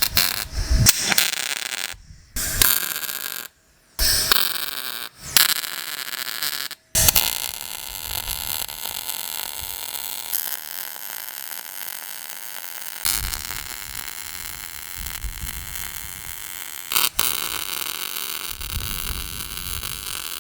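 Arc welder laying weld on a reinforcement plate: several short stop-start bursts in the first seven seconds, then one long steady run of about thirteen seconds.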